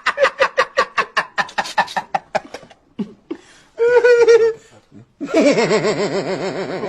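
A person laughing hard in quick, rapid bursts, then after a short break a high pitched burst and a longer laugh with a wavering pitch.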